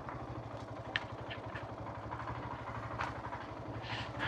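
Motorcycle engine running at low revs with a steady, even putter and a few light clicks.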